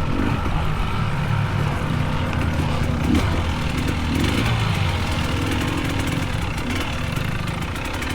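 Small dirt bike engines running at low revs, with small rises and dips in pitch as riders pick their way through a slow technical section.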